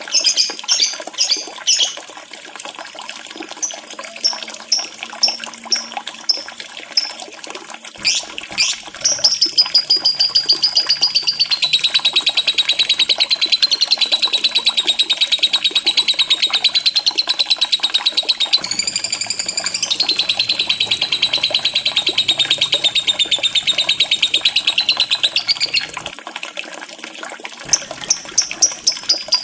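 Lovebird calling: a string of short, sharp chirps, then a long, very fast trill that runs on for about fifteen seconds before breaking off, then more sharp chirps near the end.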